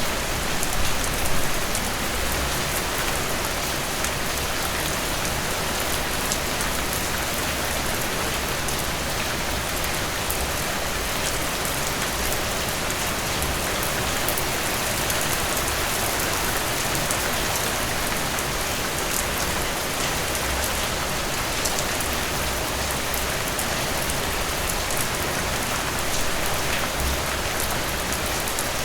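Heavy rain falling steadily: a dense, even hiss of rain on surfaces with scattered ticks of individual drops.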